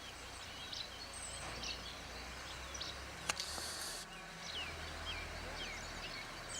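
Small songbirds chirping, many short rising and falling calls, over a steady low background rumble. There is one sharp click with a brief hiss about three seconds in.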